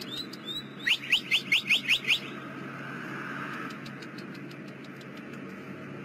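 A bird calling a quick run of about seven short rising chirps, about a second in, after a few fainter chirps at the start, over a steady outdoor background hiss.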